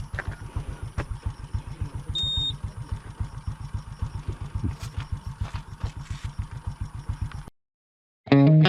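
Motorcycle engine idling with an even low putter of about nine beats a second, stopping abruptly near the end. A short high beep sounds about two seconds in.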